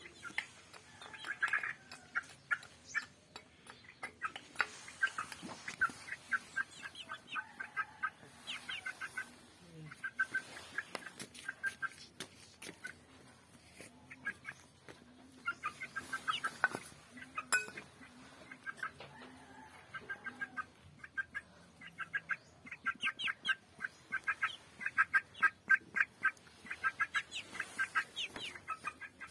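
Chickens clucking in quick runs of short, repeated calls, several a second, with brief pauses between the runs.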